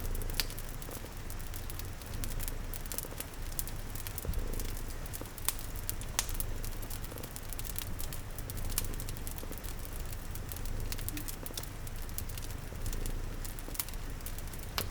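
Wood fire crackling with frequent sharp pops over a steady hiss of rain, and a continuous low rumble underneath from a cat purring.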